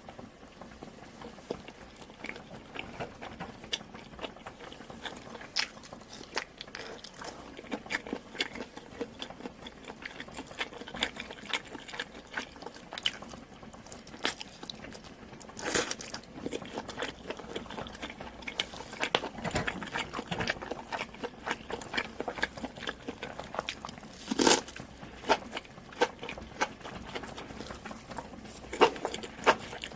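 A person chewing and biting food, a dense run of small wet clicks, with a couple of louder crunches about sixteen and twenty-five seconds in.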